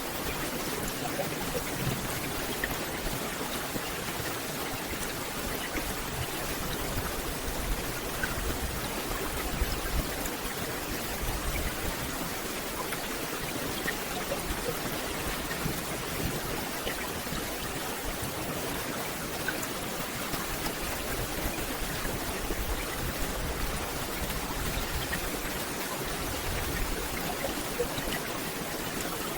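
Steady rain falling on a forest canopy, an even hiss with scattered single drops standing out.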